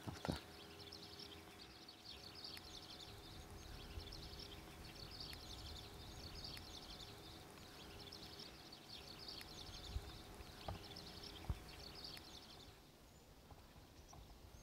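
Faint outdoor field ambience of small birds chirping over and over, with a faint steady hum underneath and a few soft knocks near the end. The ambience drops away about thirteen seconds in.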